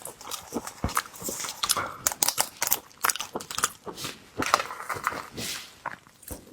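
Close-miked eating of seafood: crunching and chewing, with many irregular sharp crackles and clicks.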